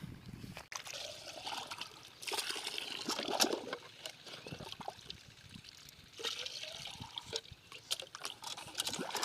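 Irrigation water trickling and splashing, with uneven swells in level.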